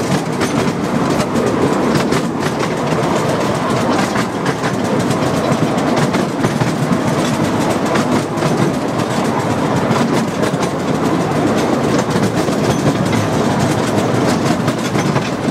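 Narrow-gauge passenger train running along the track, heard from on board: a steady rumble of the carriage wheels with a clatter of clicks over the rail joints.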